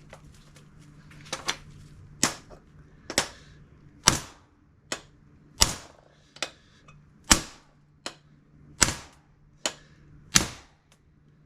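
Hammer blows on steel hinge parts, struck at a steady pace of a little more than one a second, driving a part of a GM A-body door hinge (bushing or pin) into place.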